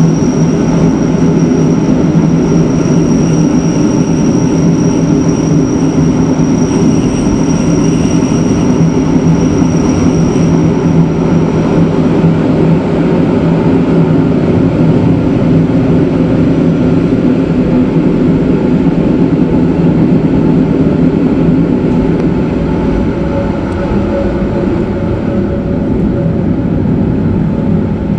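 Train on the Matterhorn Gotthard Bahn rack railway running downhill on the cog-rack section: a loud, steady rumble and hum of the running gear and drive, with a high whine that fades out about twelve seconds in.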